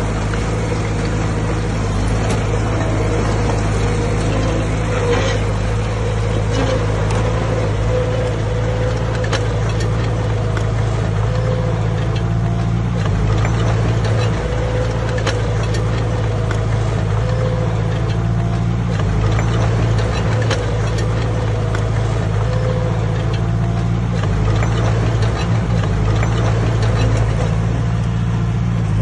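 Heavy diesel earthmoving machinery running steadily under load, a deep engine drone with a slightly wavering higher tone and scattered faint clicks and knocks.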